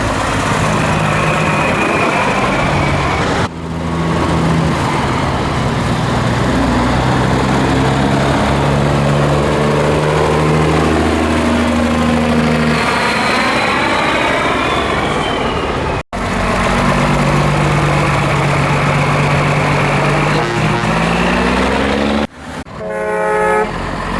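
Scania L111 truck's diesel engine running hard under load, its pitch climbing again and again as it pulls through the gears, with a short horn toot near the end.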